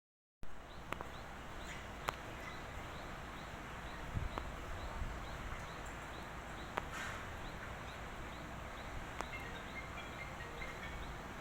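Small birds calling outdoors: a short high chirp repeats about twice a second over a steady background hiss, with a few sharp clicks and some brief high notes near the end.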